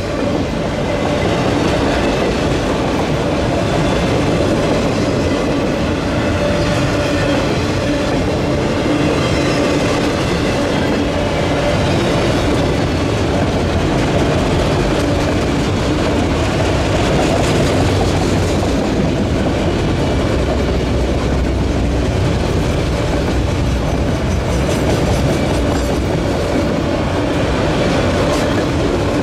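Autorack freight cars rolling past at close range, their steel wheels running on the rails in a steady, continuous noise.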